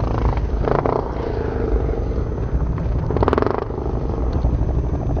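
Dirt bike engine running under a heavy, uneven low rumble. The engine note swells briefly about three seconds in.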